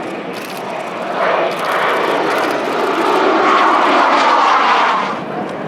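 Military jet flying past, its engine noise swelling about a second in, staying loud, then falling away near the end.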